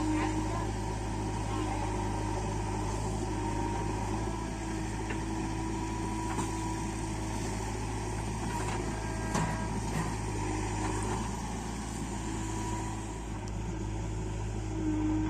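Heavy diesel engine running steadily with a low, even hum, a few faint clicks and knocks scattered over it.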